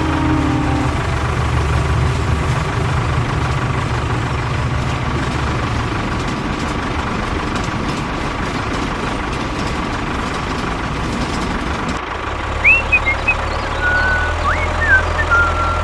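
A vehicle engine running steadily with a low rumble, which shifts to a slightly different note about twelve seconds in. A few short, high chirps come near the end.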